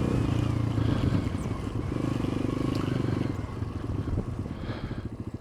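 Motorcycle engine running as the bike slows; it gets quieter and settles into an even idle beat of about eight pulses a second near the end.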